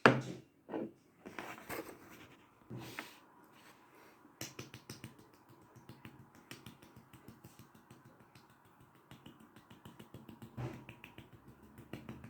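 Close-miked mouth sounds of eating: quick wet clicks and smacks of chewing, coming thick and fast after the first few seconds. Near the start come a few louder short knocks.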